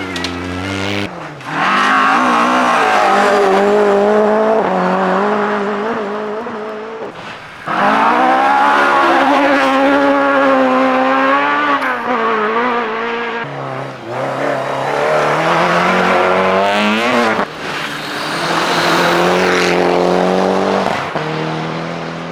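Rally car engine at hard throttle, its pitch climbing and dropping again and again through gear changes and lift-offs, in three long loud surges.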